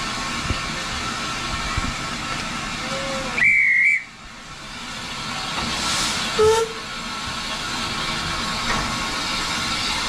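Steam locomotive hissing steadily at a standstill. A short, shrill whistle sounds about three and a half seconds in, and a brief, lower whistle follows about three seconds later.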